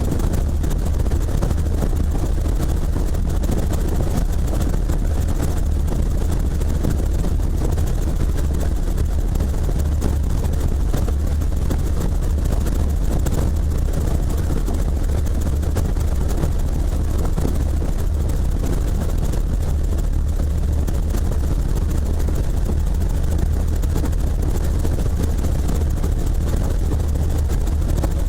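Helicopter running steadily: a constant, loud low drone of engine and rotor that does not change.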